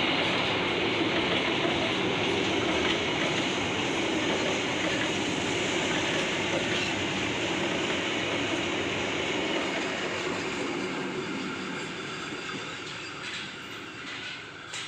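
A train's wagons rolling past on the rails: a steady rumble and clatter that slowly fades as the train moves away, with a few clicks near the end.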